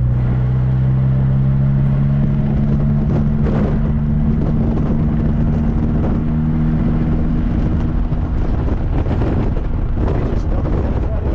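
Classic car's engine running steadily on the road, a low even hum over deep road rumble. The engine hum fades out about nine seconds in, leaving road and wind noise.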